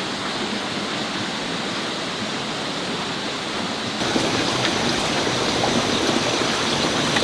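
Steady rushing noise like flowing water, stepping up a little louder about four seconds in, with faint scattered ticks.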